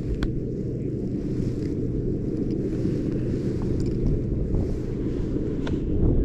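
Strong gusty wind buffeting the microphone: a dense, steady low rumble, with a few faint ticks.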